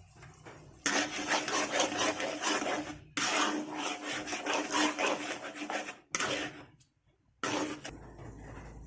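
Cookware being worked: a rough scraping and clattering of a utensil against a pan, in a few stretches that start and stop abruptly, over a steady low hum.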